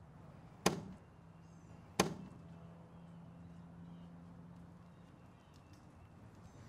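Two sharp clacks of chess play, about a second and a half apart: pieces and the chess clock being struck during a fast game.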